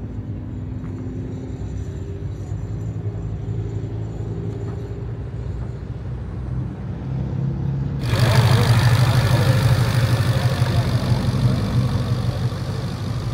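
Car engine idling with a steady low rumble; about eight seconds in, a much louder engine sound comes in abruptly and keeps running.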